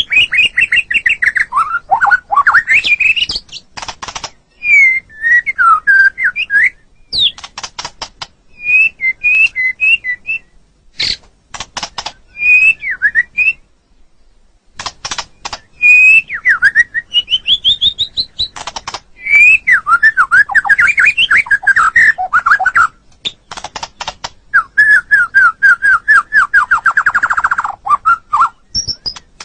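White-rumped shama singing a varied song: clear whistled phrases broken up by runs of sharp clicks. There are brief pauses between phrases, and a fast trill falls in pitch near the end.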